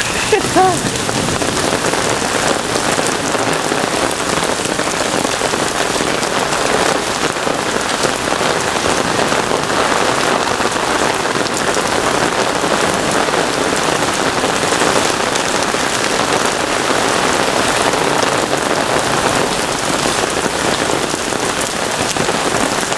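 Heavy thunderstorm downpour: dense rain pouring down steadily.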